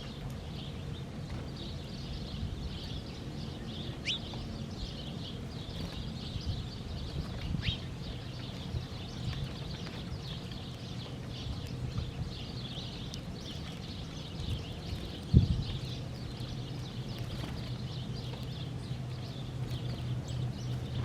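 Small birds chirping and twittering steadily, with a few clearer calls that sweep down in pitch, over a low steady hum; a single sharp thump about 15 seconds in.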